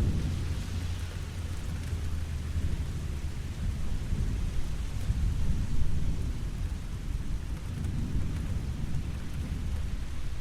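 Steady rain falling, with a low rolling rumble of thunder underneath that swells and eases.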